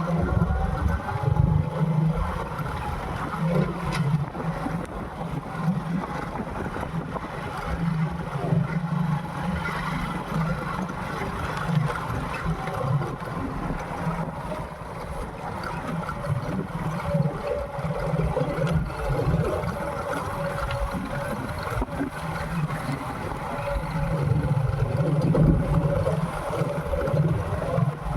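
Motorcycle engine running under way, its note swelling and easing as the bike rides along, over a low rumble of wind and road noise.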